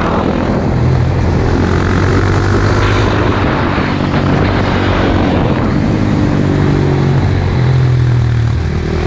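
Motorcycle engine running steadily at speed under heavy wind rush, its note shifting slightly a few times.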